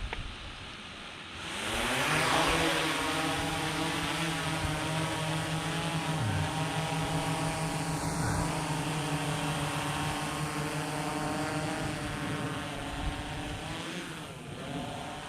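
DJI Mavic 3 Classic quadcopter's propellers spinning up with a rising whine about a second and a half in, then holding a steady buzzing hum. The pitch shifts briefly near the end.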